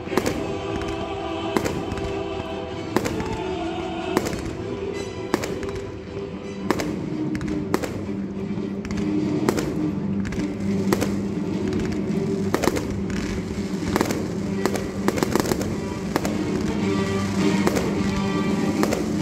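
Fireworks bursting over music: dozens of sharp bangs and cracks, irregular at first and coming thicker and faster in the second half, with music playing throughout.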